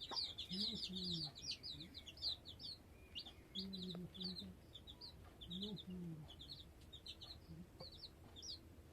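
Chickens: a hen clucking in short, low calls every second or two, over a rapid run of high chirps that is thickest at first and thins out.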